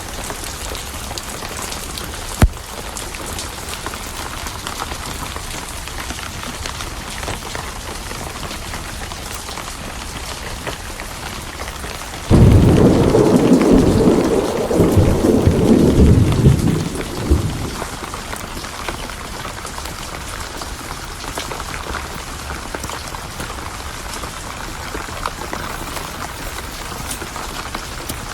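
Steady rain with a thunderclap that breaks in suddenly about halfway through and rumbles in waves for about five seconds before fading back into the rain. A single sharp crack sounds near the start.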